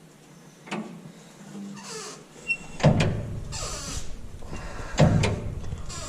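Brake-bleeding work on a 1948 Diamond T's brake system: three heavy clunks about two seconds apart, each followed by a rushing hiss.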